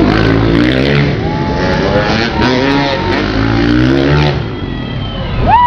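Dirt bike engines revving up and down several times, pitch rising and falling in repeated sweeps. A loud high-pitched sound begins right at the end.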